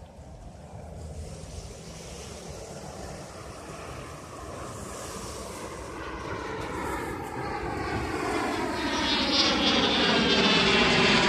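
Airplane approaching the airport, its engine noise growing steadily louder, with a tone that sweeps down in pitch over the last few seconds.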